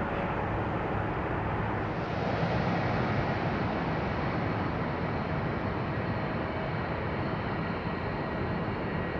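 Steady jet aircraft noise: an even rumble with a hiss above it, the hiss a little brighter from about two seconds in.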